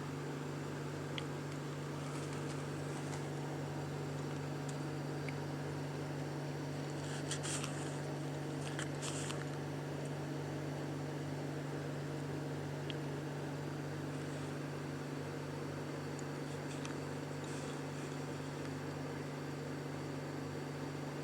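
Steady low mechanical hum with an even hiss. Brief soft rustles come about seven and nine seconds in.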